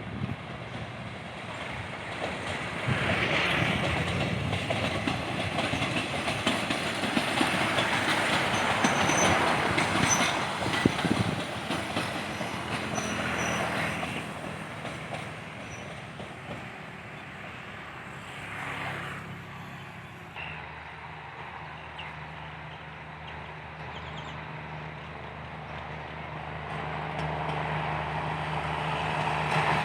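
Train running on the track. A loud rolling noise builds for about the first half, then fades after about fourteen seconds. After that a steady low hum sets in and grows louder toward the end.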